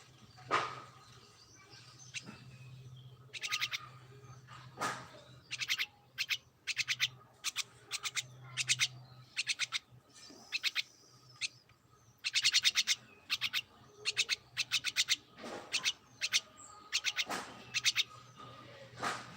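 Pet birds chirping: rapid trains of short, high chirps in repeated bursts, with a few louder sweeping calls, over a faint steady low hum.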